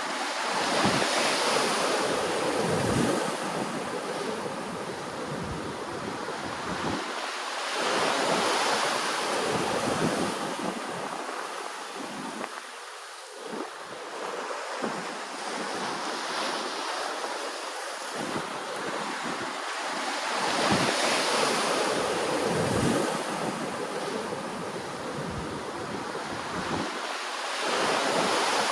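Ocean waves washing ashore: a steady hiss of surf that swells and ebbs every several seconds.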